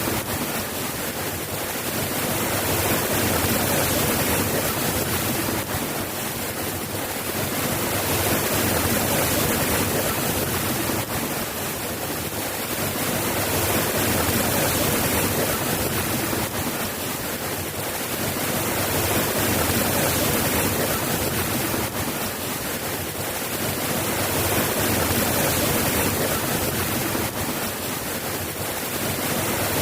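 Steady soft rain, an even hiss that swells and eases slowly every five or six seconds.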